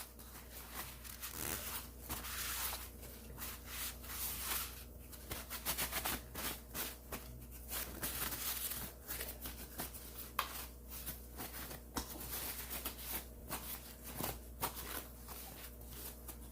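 Paper towel rubbing and scrubbing over dirty blower fan parts: an irregular run of short rustling, scraping strokes.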